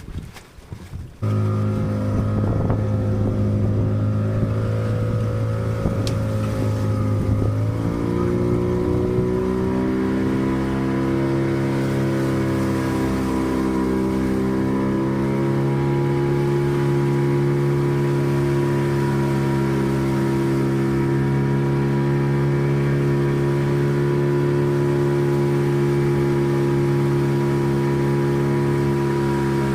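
Boat engine running steadily, cutting in suddenly about a second in; around eight seconds in it speeds up, its pitch rising, then holds at the higher speed.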